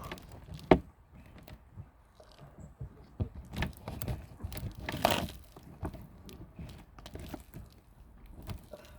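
Scattered rustling, crunching and knocking from handling while an egg is reached for and picked up in a chicken coop, with a sharp click just under a second in and a longer rustle about five seconds in.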